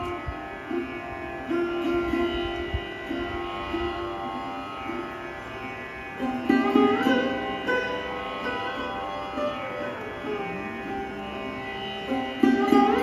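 Sarod being played in a slow classical passage: plucked notes that slide in pitch, ringing over the steady hum of its sympathetic strings. A burst of quicker, louder strokes comes about six and a half seconds in and again near the end.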